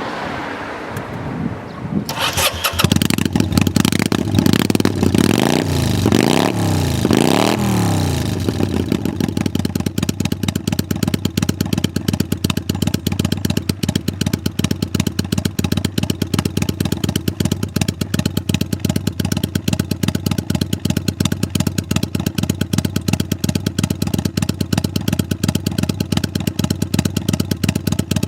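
Kawasaki Vulcan 400 Classic V-twin with slash-cut mufflers starting about two seconds in. It is revved with a few throttle blips, then settles into a steady, loud idle.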